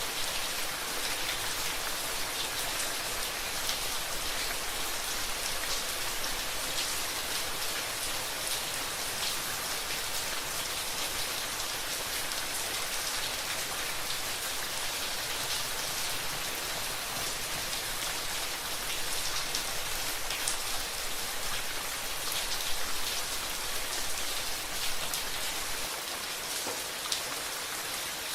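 Steady rain falling, with many individual raindrops ticking on a surface over an even hiss.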